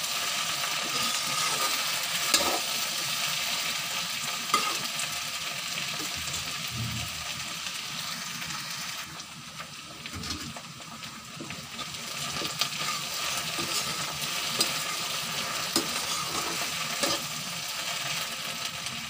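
Chopped okra frying and sizzling in hot mustard oil in a steel kadai, with a metal spatula clicking and scraping against the pan a few times as it is stirred. The sizzle drops lower for a few seconds in the middle.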